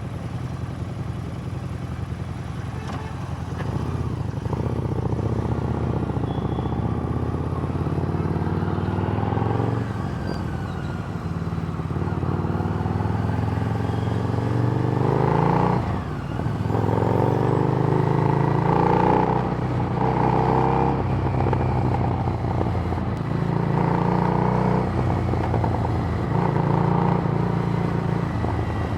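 Harley-Davidson Street Rod's V-twin engine through a Screamin' Eagle exhaust under way, its note rising with the revs several times. The engine drops off briefly about halfway through, then swells and eases again in repeated pulls toward the end.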